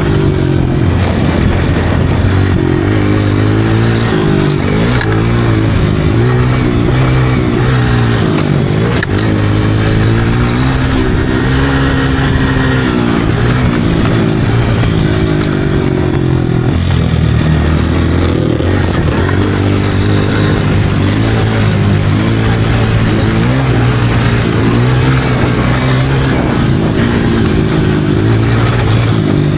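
Motocross dirt bike engine being ridden, its pitch climbing and dropping again and again as the throttle is opened and closed and the gears change.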